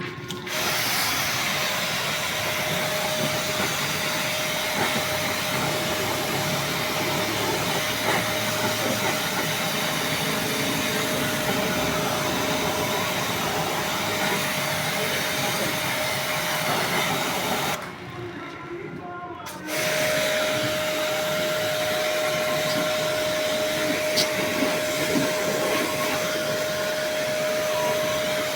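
A motor-driven machine running with a steady whine over a rush of noise. It stops about 18 seconds in and starts again about two seconds later.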